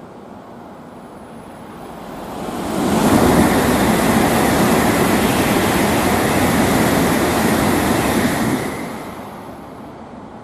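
Tokaido Shinkansen bullet train passing at high speed without stopping: a rushing noise that swells about two seconds in, stays loud for about six seconds, then dies away near the end.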